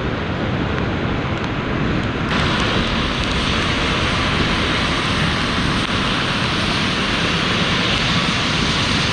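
Strong wind buffeting the microphone with a rumbling gust, over the jet engine noise of an airliner, which grows abruptly louder and hissier about two seconds in.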